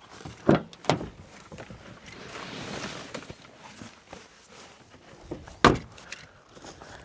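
Three sharp knocks, about half a second in, a second in, and near the end, with a soft rushing noise between them.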